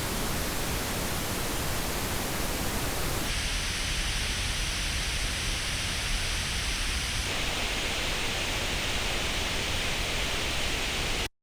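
Pink noise test signal, played through earbuds into an artificial ear simulator. A steady hiss whose tone shifts abruptly about three seconds in and again about seven seconds in. It cuts off suddenly just before the end.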